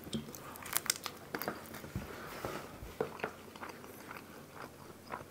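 A bite into a folded pizza slice, with crunching and crackling of the crust during the first second or so, then quieter chewing with small clicks.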